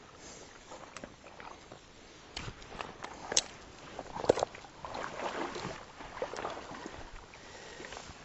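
Scattered light clicks and knocks from handling gear aboard a fishing kayak, with a swishing rush between about four and six seconds in.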